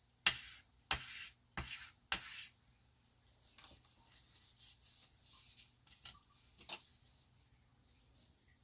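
Short puffs of air, four in a row about two-thirds of a second apart, blown at wet alcohol ink to push it into lines, followed by faint scratchy rubbing sounds.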